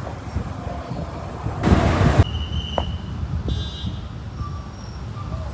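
Road traffic with a steady low vehicle rumble. A louder whoosh of a vehicle passing comes about two seconds in, followed by a couple of short high-pitched tones.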